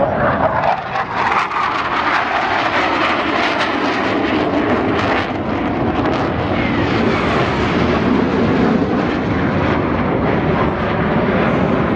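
Black Eagles' KAI T-50B jets flying past: a loud, steady jet rush. In the first two seconds it has a sweeping, hollow-sounding shift in tone.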